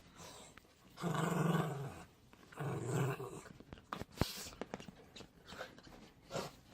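Dog growling in two low grumbles, each about a second long, then a run of small scattered clicks and ticks.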